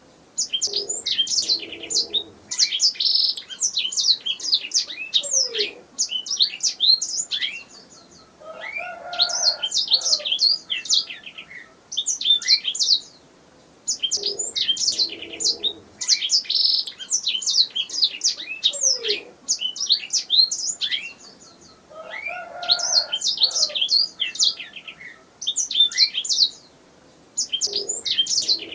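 Domestic canary singing: fast chirps and rolling trills in phrases several seconds long, with short pauses between them.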